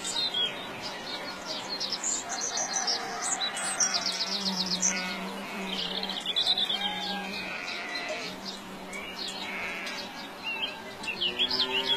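Birds chirping and twittering: many short, high calls and trills overlapping throughout, over a faint steady low hum.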